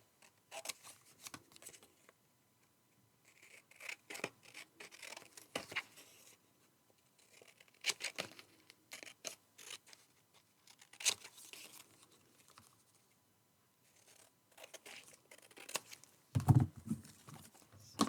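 Scissors snipping through paper in several short runs of cuts with pauses between them, along with the rustle of paper being handled.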